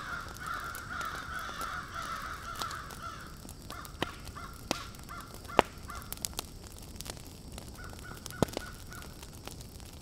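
Crow-like cawing calls, a long wavering run of calls for the first few seconds, then shorter calls in two bursts. A few sharp clicks fall between about four and nine seconds in.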